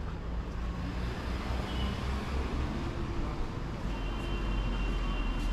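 Road traffic with a steady low rumble of vehicles running, and a thin high steady tone coming in near the end.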